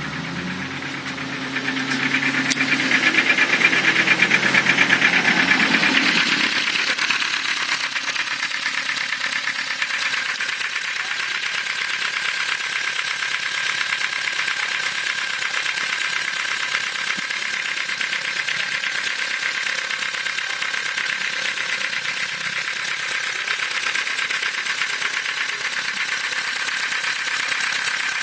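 Ford Focus II engine running with a rapid, steady knock. It grows louder about two seconds in.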